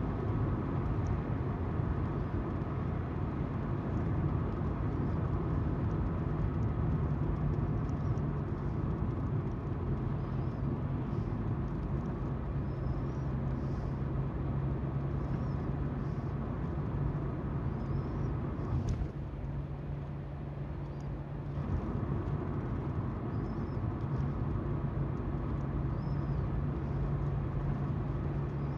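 Car running along the road, heard from inside the cabin: a steady engine hum under tyre noise. About two-thirds of the way through there is a click, and the engine note drops for a couple of seconds before it returns.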